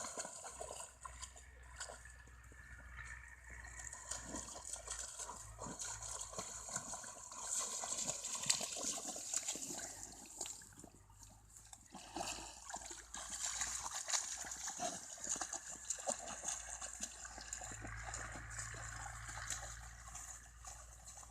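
Water splashing and trickling, with scattered small clicks and splashes.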